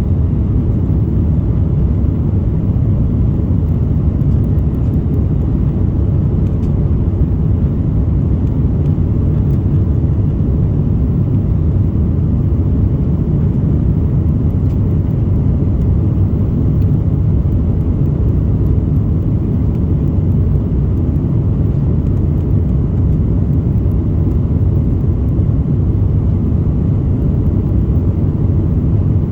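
Steady, loud low rumble of an Airbus A330-200's jet engines and airflow, heard from a window seat inside the passenger cabin.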